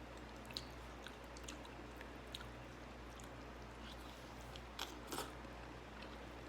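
A person chewing food close to the microphone, with scattered small wet clicks and a couple of louder ones about five seconds in, over a steady low hum.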